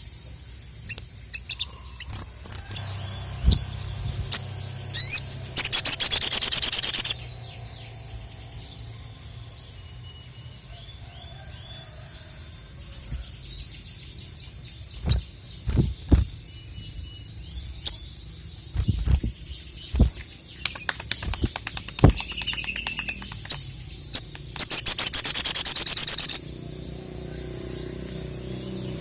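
Sogon (sogok ontong) bird calling in full voice: scattered sharp high chirps and short notes, broken twice by a loud, very rapid high trill about a second and a half long, once about a fifth of the way in and again near the end.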